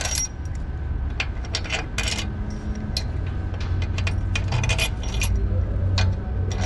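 Hand tools and metal engine parts clinking and knocking in irregular short clicks, over a steady low hum.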